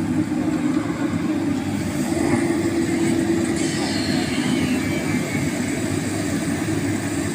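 Heavy diesel engine of an excavator running steadily under load.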